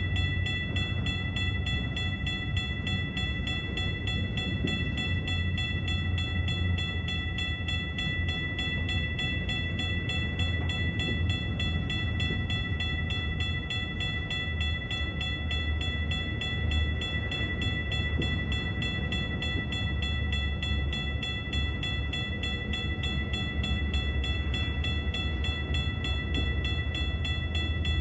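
BNSF double-stack container cars rolling steadily past with a continuous low rumble of wheels on rail, while the grade-crossing bell rings on without a break as a set of steady high tones.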